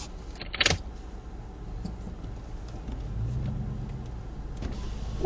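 Steady low rumble of a vehicle driving, with a short sharp rattle about half a second in and a click near the end.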